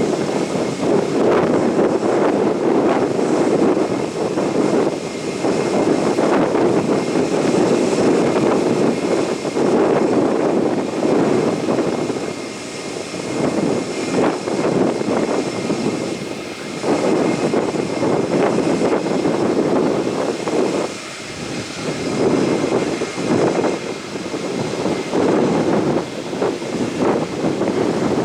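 Jet airliner engines running, with wind buffeting the microphone so that the level surges and dips several times.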